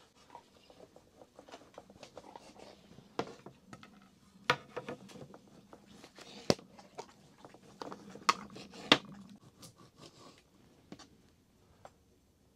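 Irregular light clicks and knocks of small objects being handled, with a few sharper knocks in the middle and a faint low hum under them.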